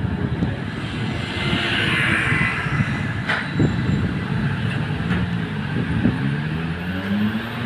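Tram running along the rails, heard from on board: steady wheel-on-rail rumble with a hissing band in the first seconds and a sharp click a little over three seconds in. In the second half a motor hum rises in pitch.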